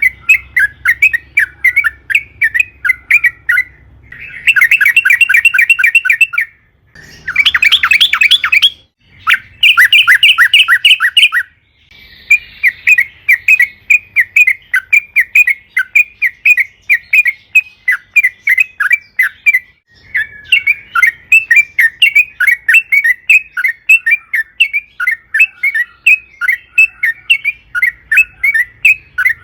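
Yellow-vented bulbul singing a long chattering string of quick, repeated notes. About a third of the way in come three louder, faster bursts with short breaks between them.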